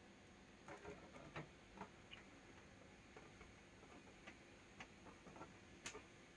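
Faint, irregular light clicks and taps, a cluster in the first two seconds and then single ones spaced out, the sharpest near the end, over quiet room tone.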